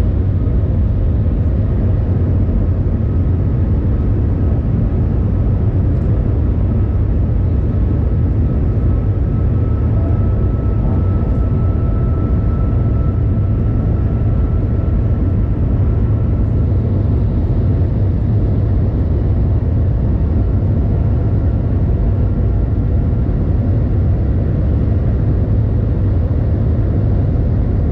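Steady, loud rumble and rushing noise inside the passenger cabin of the Shanghai Transrapid maglev train running at speed. A faint high whine comes up around the middle and fades again.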